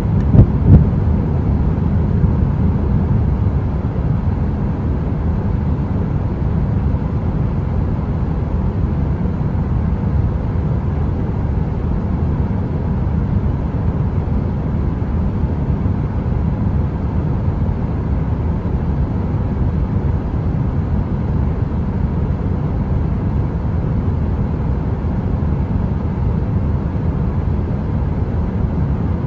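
Steady deep rumbling noise, a heater-style brown noise. Two sharp pops come about half a second in and a smaller one about two seconds in.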